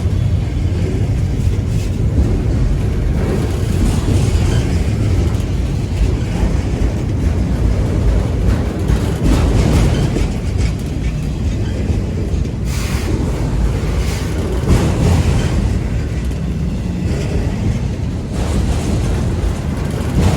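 Freight train of auto-rack cars rolling past, a steady low rumble with faint clatter from the wheels.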